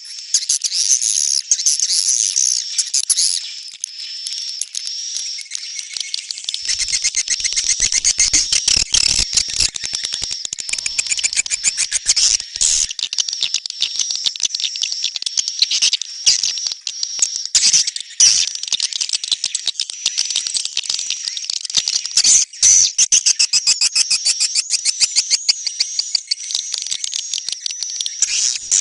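Swiftlet calls: a dense, fast stream of high-pitched chirps and clicks, the recording sold as a 'neutral sound' for luring swiftlets. A faint low rumble runs underneath from about 7 to 13 seconds in.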